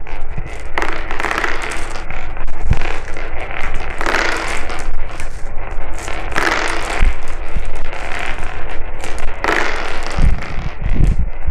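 Marbles rolling and clattering down a marble run track, a continuous rattling with louder surges every second or two as marbles hit turns and drops.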